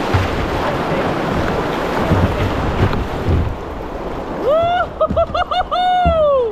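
Rushing river water and wind noise around a kayak, with a few dull low knocks. Near the end, a run of high, pitched calls: a long arching note, several short quick ones, then another long note falling away.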